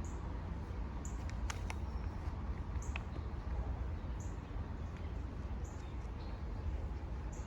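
Songbirds chirping in short high notes about once a second, over a steady low rumble, with a few sharp clicks between about one and a half and three seconds in.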